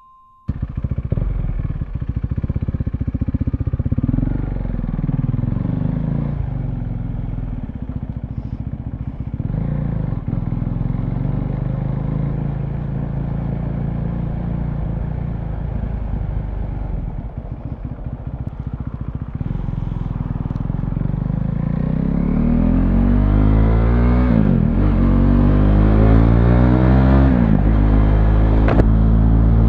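2017 KTM Duke 390's single-cylinder engine running through a loud SC Project aftermarket exhaust while riding, starting abruptly about half a second in. Revs rise and fall, and in the second half the pitch climbs and drops back several times as the bike accelerates up through the gears.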